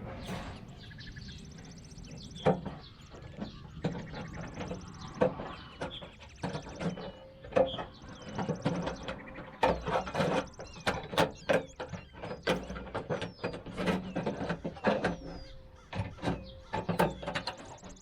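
Tin snips cutting through a sheet-metal downspout: an irregular run of sharp snips and metal crunches, coming thick and fast in the second half.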